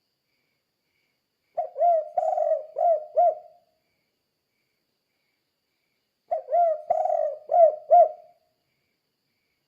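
Spotted dove (tekukur) cooing in the 'kuk 2' song style: two phrases of about five low, rounded coos each, a few seconds apart.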